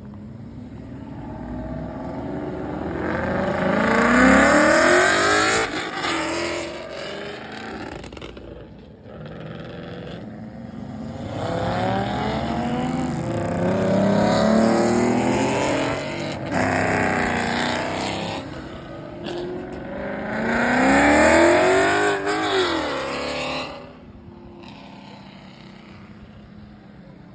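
Car engines revving hard and accelerating in three loud runs, the pitch climbing in each, with quieter stretches between; the last run rises and then falls away near the end.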